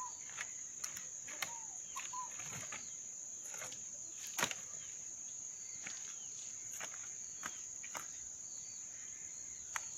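Crickets chirping in a steady, high-pitched chorus, with scattered sharp clicks and knocks, the loudest about four and a half seconds in, and a few short peeps in the first couple of seconds.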